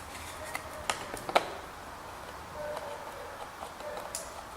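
A few sharp metallic clicks and light scraping from steel marking-out tools handled on sheet metal, with the two loudest clicks about a second in.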